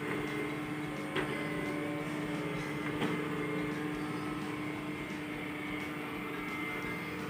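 Robot vacuum cleaner running with its mop pad attached: a steady motor hum and whine, with two sharp knocks about a second and three seconds in.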